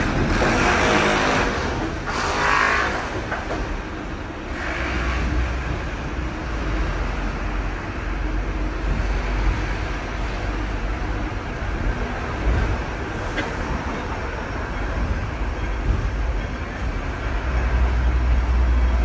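Steady low rumble of a moving Hong Kong double-decker, heard from its upper deck, with three short hissing sounds in the first five seconds.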